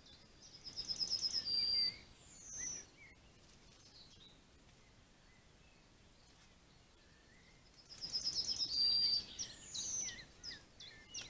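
A songbird singing: two phrases about seven seconds apart, each a quick run of repeated high notes ending in a held note and a falling slur. Fainter bird chirps sound between and after.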